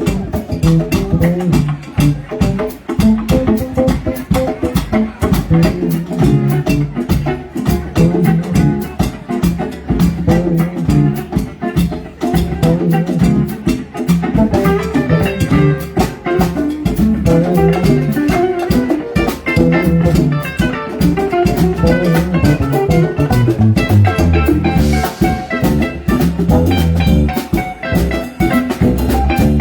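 Live band music: a drum kit keeping a steady beat under bass and guitar, with no singing.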